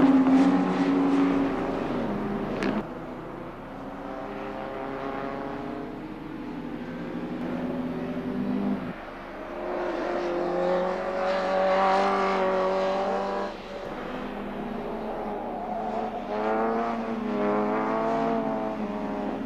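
Historic 1950s sports-car engines racing on track: cars revving and passing, their engine notes rising and falling through gear changes. The sound changes abruptly about three, nine and thirteen seconds in.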